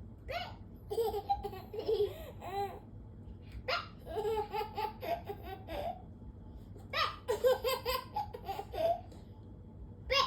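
A baby laughing in about four bouts, each a quick run of pitched chuckles, with short pauses between.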